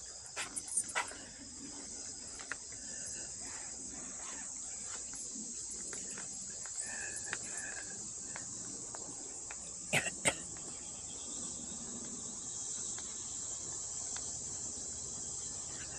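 Steady high-pitched insect chorus. A few short clicks come in the first second or so, and a sharp double click about ten seconds in.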